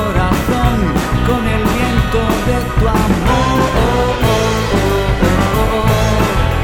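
Rock music from a full band, with drums and bass under bending pitched lead lines.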